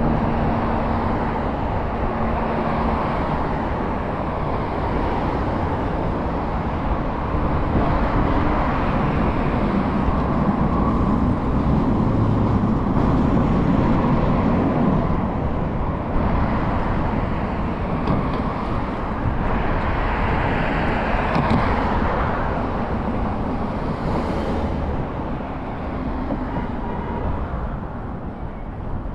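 Riding noise from a moving scooter in city traffic: steady wind rumble on the microphone with road and traffic noise. A louder swell rises and falls about twenty seconds in.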